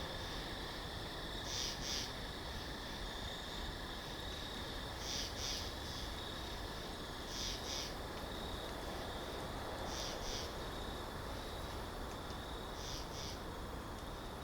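Winter forest ambience: a steady rush of wind, with a small bird giving a short high double call about five times, every two to three seconds.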